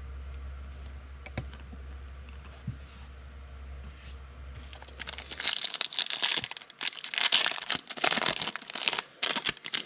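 A trading-card pack's foil wrapper being torn open and crinkled in the hands, loud and crackling from about halfway through, after a few faint clicks.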